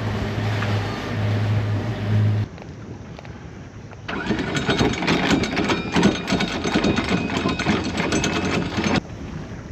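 Sailboat's inboard engine running with a steady low hum. After a cut, about four seconds in, the anchor windlass pays out chain with a fast, dense rattling for about five seconds, while the anchor is being set.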